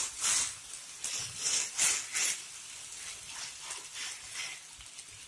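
Potato pancake batter sizzling in hot oil as a spatula presses and spreads it across a nonstick pan, in short repeated bursts of hiss with each stroke. The bursts are strongest in the first couple of seconds and weaken after that.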